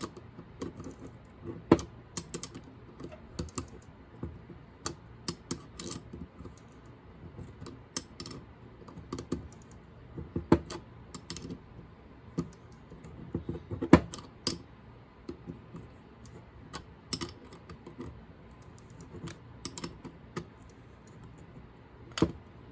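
Irregular sharp metallic clicks and taps, one to a few a second, from a 5/8-inch wrench being worked on the fluid screw nut of a spray gun. The loudest knock comes about fourteen seconds in.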